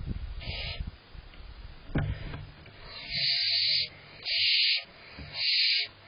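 Barn owl owlets giving harsh hissing calls: a faint one just under a second in, then three loud ones in quick succession in the second half, each under a second long. A low rumble in the first second and a single knock about two seconds in.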